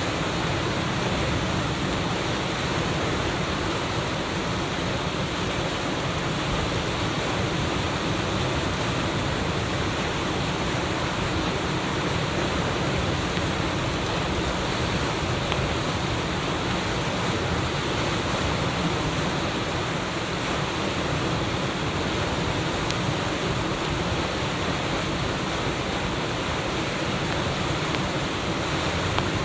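Steady rushing of a typhoon-swollen river in flood, its high water pouring over an artificial reef into a standing wave.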